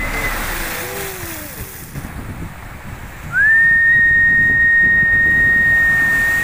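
A long, steady high whistled note that slides up into pitch a little over three seconds in and is held for about three seconds; the end of a similar note is heard at the start. Underneath, wind and surf make a steady low rumble.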